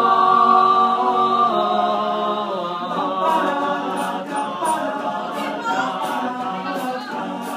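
A cappella vocal group singing in harmony with no instruments, holding long chords with shifting voices. Short, sharp hissing beats join about three seconds in.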